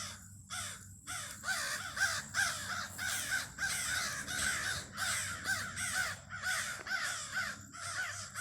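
A flock of crows giving harsh, repeated caws, several birds overlapping at about two to three calls a second, growing denser after about a second. These are alarm and mobbing calls at an intruder near their nest.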